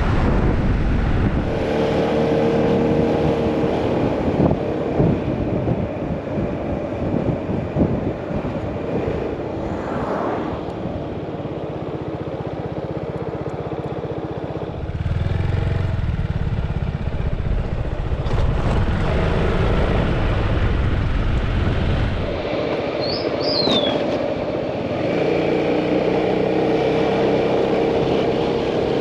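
Motorcycle engine running on the move, with wind rumble on the microphone; the engine note fades in the middle stretch and returns near the end. A short high chirp sounds about two-thirds of the way through.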